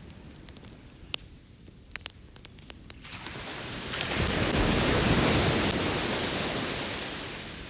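A beach campfire crackling with sharp pops while an ocean wave washes in. The wave swells up about three seconds in, peaks, then recedes and fades near the end.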